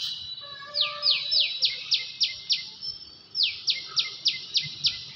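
A bird calling a rapid series of sharp, high notes that each drop in pitch, about four a second, in two runs of seven or eight notes with a short pause between.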